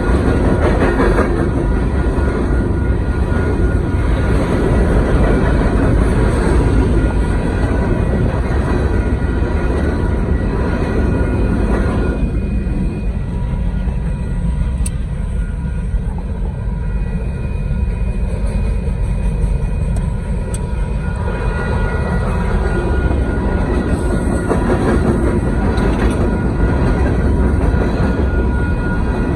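Union Pacific coal train's cars rolling past, a loud steady rumble of wheels on rail with a few faint steady high tones over it.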